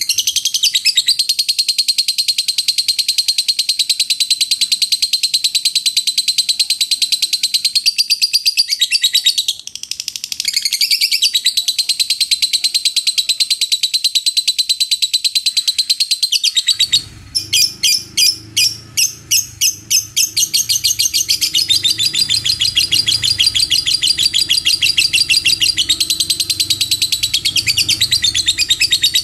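Lovebird giving its long 'ngekek' chatter: an unbroken, very fast string of shrill high notes. It breaks off briefly about a third of the way in, and about two-thirds of the way through it turns for a few seconds into separate sharp chips before the rapid chatter resumes over a low background hum.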